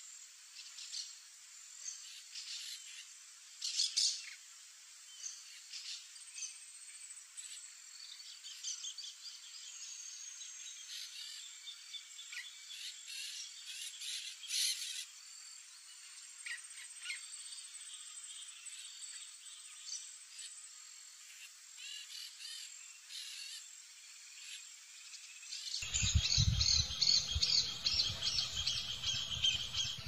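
Birds chirping and calling, with scattered short calls. Near the end it turns suddenly louder, with a rapid run of chirps over a low rumble.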